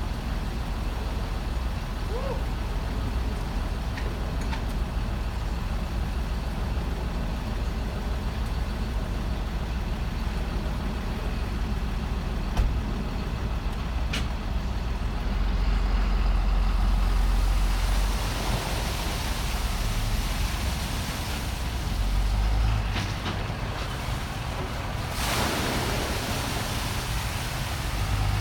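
Cummins 6.7L diesel engine of a Ram 4500 truck running with a steady low rumble, swelling louder twice partway through. A short burst of hiss comes near the end.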